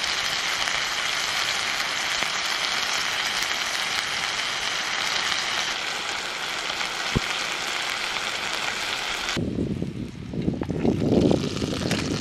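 Plant-based burgers sizzling in a frying pan, a steady hiss. About nine seconds in it cuts off abruptly to a lower, uneven rumble.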